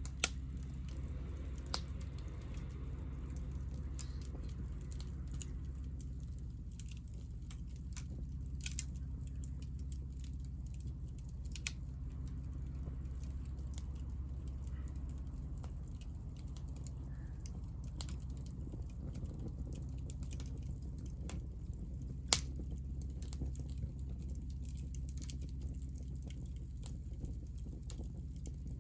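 Hinoki scrap-wood fire crackling, with scattered sharp pops, the loudest about 22 seconds in, over a steady low rumble.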